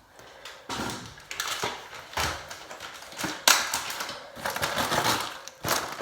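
Handling noises during kitchen food preparation: a run of rustles, clatters and knocks, the loudest about three and a half seconds in.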